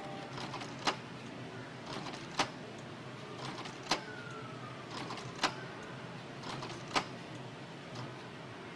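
Canon G2000 inkjet printer mechanism running, with sharp clicks about every one and a half seconds over a steady hum and a short falling whine in the middle.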